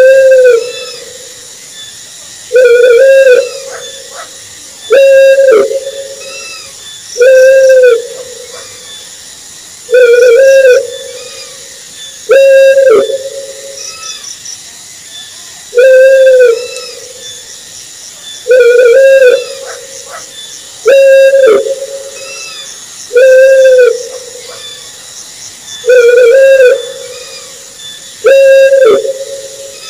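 An owl calling over and over: one hooting note about every two to three seconds, each about a second long, rising slightly and falling in pitch.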